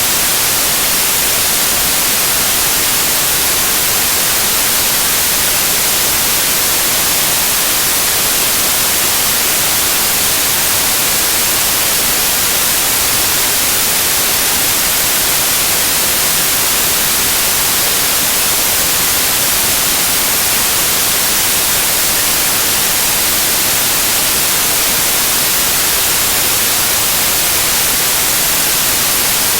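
Loud, steady white noise: an even, unchanging hiss with most of its energy in the high frequencies.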